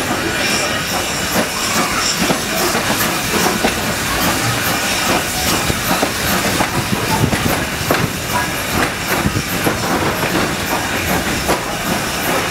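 Railroad car wheels rumbling and clattering over the track of a slowly moving train, heard from aboard, with a steady hiss over the top.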